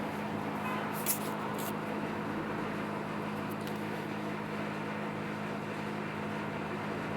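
Steady background hum and hiss with a constant low drone, broken by two faint clicks about a second in.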